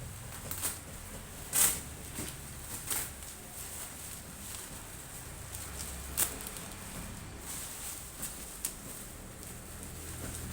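Handling noise: a few light taps and clicks spaced irregularly over a low steady hum, the sharpest about one and a half seconds in and about six seconds in.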